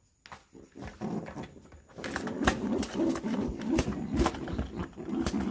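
Pigeon making low, repeated cooing grunts mixed with sharp slaps and clicks, typical of an attacking pigeon; it starts about a second in and grows louder from about two seconds in.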